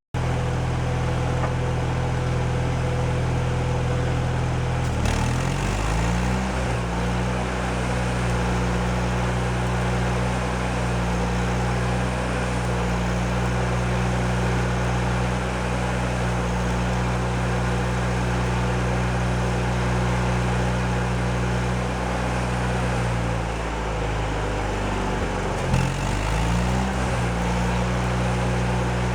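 An engine running steadily, its speed shifting about five seconds in and dipping then coming back up near the end.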